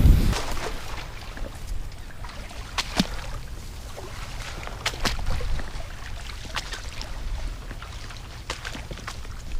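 Wind buffeting the microphone as a steady low rumble, with scattered short, sharp clicks.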